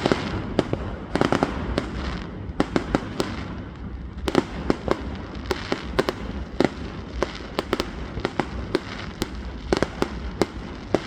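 Fireworks going off: many sharp bangs and crackles in quick, irregular succession over a low rumble, with denser volleys about a second and three seconds in.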